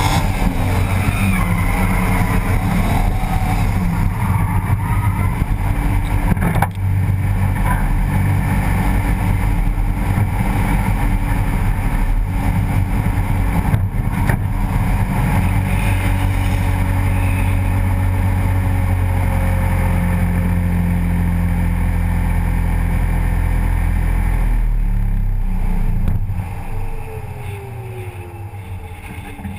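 BMW E30 drift car's engine heard from right beside the engine: revs rise and fall during the first several seconds, then it runs steadily at moderate revs. The sound drops away sharply near the end as the car comes to a stop.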